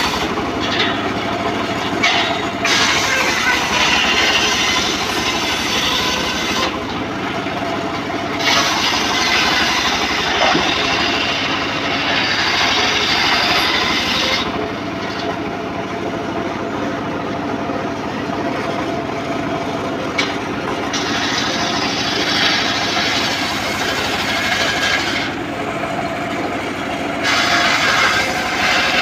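Homemade circular saw rig running steadily, its blade cutting teak timber. The high, hissing cut sound comes and goes in long stretches as the blade goes through the wood and then runs free.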